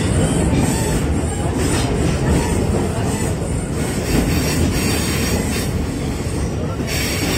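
Train running on the rails, heard from on board: a steady, loud rumble of wheels and carriage, with a higher hiss that comes and goes.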